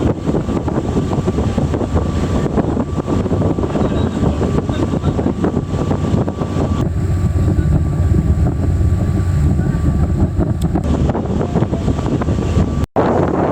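Sightseeing boat's engine running steadily under way, with wind buffeting the microphone.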